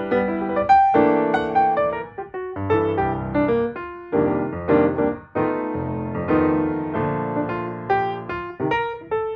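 Background music: solo piano playing a gentle melody of struck notes, each ringing and fading.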